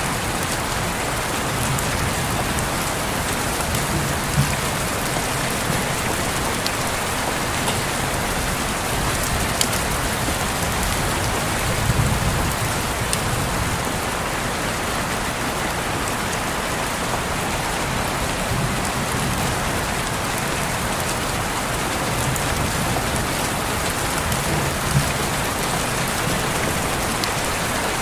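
Steady rain pattering on a window pane, with a few sharper single drop hits standing out now and then.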